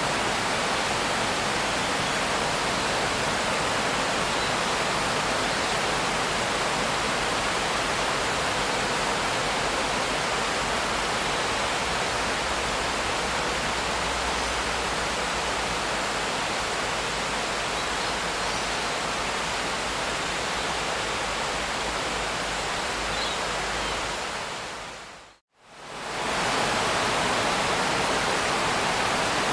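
Steady, even hiss of heavy rain with no separate drops or thunder standing out. About 25 seconds in it fades to silence and back up within about two seconds.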